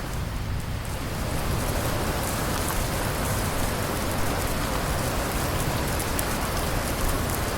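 Steady rain falling on a surface: an even hiss with individual drops ticking close by.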